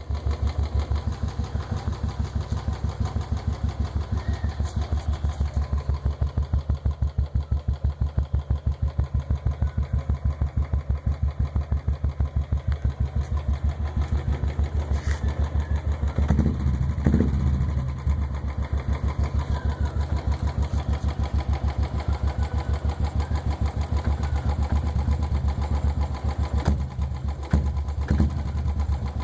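Motorcycle engine idling through an aftermarket performance exhaust, with a steady, even beat of exhaust pulses. A short throttle blip about halfway through raises the level briefly before it settles back to idle.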